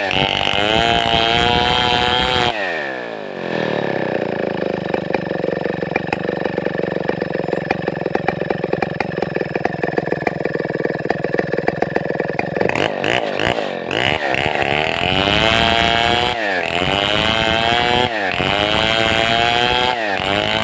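Large two-stroke chainsaw of the Stihl 070 / New West 707 type running at high revs, then dropping to idle about two and a half seconds in. It idles for about ten seconds, is blipped a few times, and goes back to high revs, with the pitch dipping and recovering every second or two near the end.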